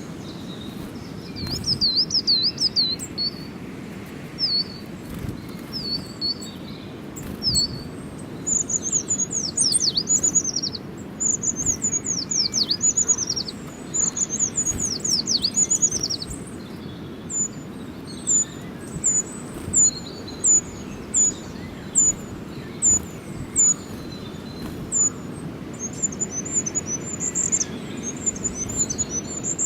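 Small songbirds chirping: quick trills of high notes, runs of falling whistled notes in the middle, then single sharp chirps about one a second, and rapid twittering near the end, over a steady low background noise.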